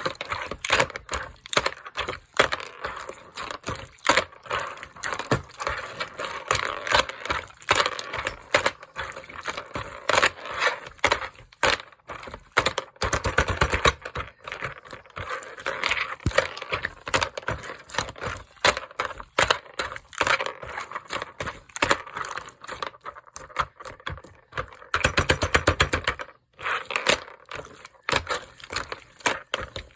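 Crunchy slime being squeezed and kneaded by hand: a continuous run of crackles and pops, with two stretches of denser, faster crackling, one about halfway and one near the end.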